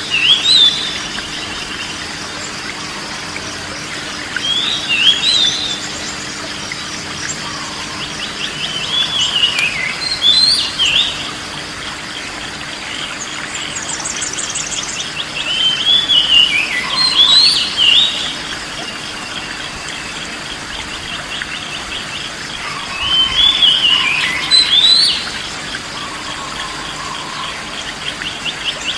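Songbird singing short, quick warbling phrases, one burst about every six seconds, over a constant background of fast insect-like trilling.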